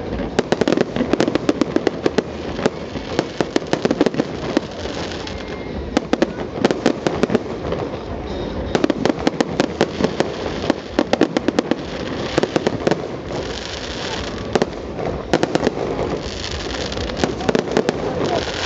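Fireworks display: dense runs of sharp bangs and crackling pops from aerial shells bursting, with several short bursts of hissing.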